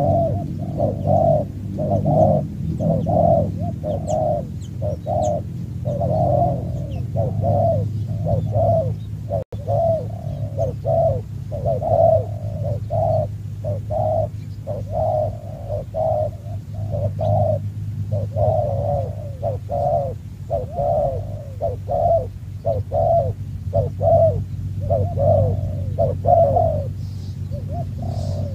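Doves cooing: short coo notes repeat about twice a second without a break, over a steady low rumble.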